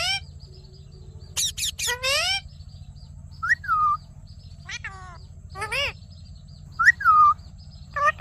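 Indian ringneck parrot giving a string of about seven short, shrill calls, some sweeping up and some down in pitch, with short gaps between them.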